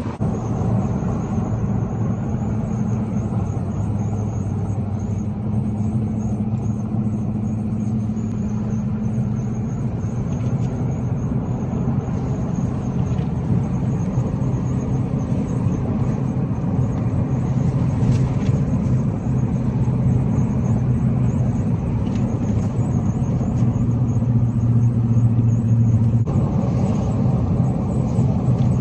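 Car driving, a steady low drone of engine and road noise.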